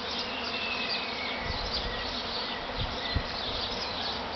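Dense buzzing of a honeybee swarm in flight all around, with single bees whizzing close past now and then. A few low thumps sound in the middle, the sharpest about three seconds in.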